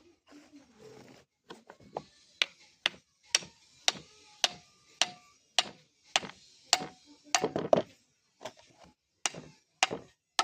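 Hand hammer striking an iron blade being forged on an anvil, steady blows about two a second, each followed by a short metallic ring.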